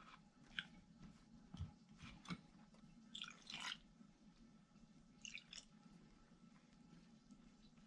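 Hands kneading flour dough for roti: faint sticky squishing and crackling, in a cluster about three seconds in and again around five seconds.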